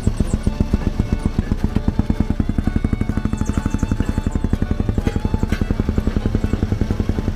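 Small gasoline engine of a railroad speeder (track motorcar) running with a rapid, even putt-putt beat.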